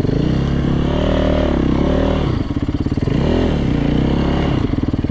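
Yamaha YZ450F's single-cylinder four-stroke engine running under way, its freshly rebuilt motor pulling cleanly. The engine speed rises and falls with the throttle, dropping sharply and climbing back about three seconds in.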